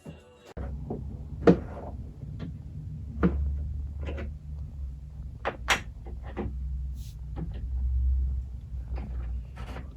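Scattered knocks, clicks and clatter of objects being handled and set down, the sharpest about one and a half seconds in, over a low steady hum.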